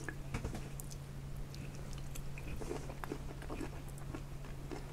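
A person chewing a mouthful of pork belly and fried rice, with scattered small clicks and soft mouth noises over a steady low hum.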